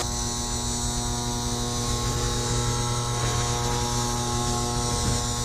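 A steady electrical hum with a buzzing edge, holding one low pitch throughout.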